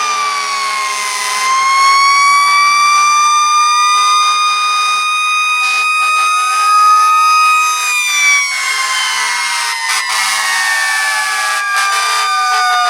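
Several fire truck sirens wailing at once, their pitches sliding slowly up and down and overlapping one another.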